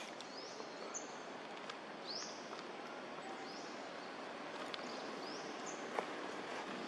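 Outdoor background ambience with a bird repeatedly giving short, high, rising chirps, about one a second. A single sharp click about six seconds in.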